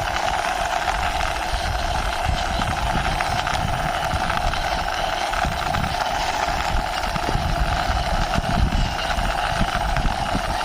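Plastic toy car pushed along by hand, its wheels rolling with an uneven low rumble, over a steady mechanical hum.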